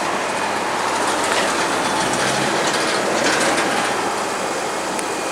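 Steady roar of heavy traffic on a busy main road, with a deeper rumble of a passing vehicle through the middle.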